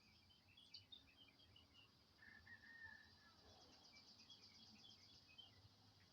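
Faint birdsong: many short, high chirps, with one lower drawn-out note about two seconds in and a quick trill in the middle. Over it runs a steady high insect hum.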